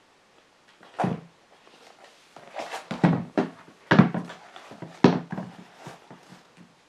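Handling noise from a pair of trail running shoes: four soft thumps about a second apart, with rustling between them.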